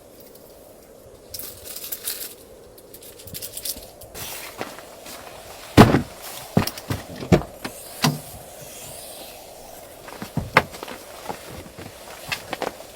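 Irregular knocks and clatters, as of things being handled or set down, with a stretch of crackling rustle about a second in; the loudest knock comes just before the middle.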